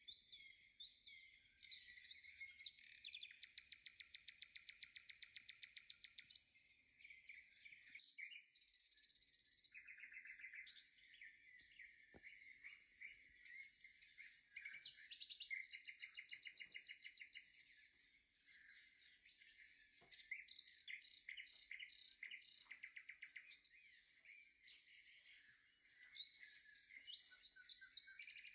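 Faint birdsong: several birds chirping, with fast trills.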